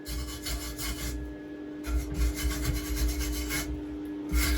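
Angle grinder working down fresh welds on a steel swing arm: a steady motor hum with harsh scraping passes that come and go as the disc is pressed on and lifted off.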